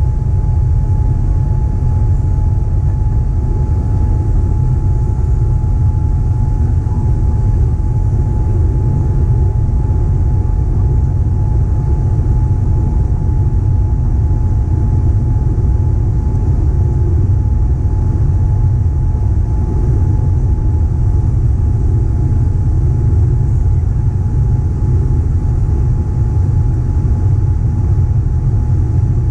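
Boeing 787-9 airliner heard from inside the cabin under engine power: a steady, deep rumble with a thin, even whine on top.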